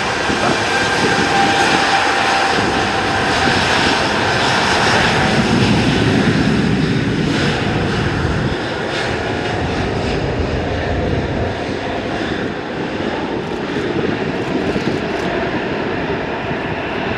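Airliner's engines running loud and steady, with a whine in the first half that fades as the roar eases somewhat after about eight seconds.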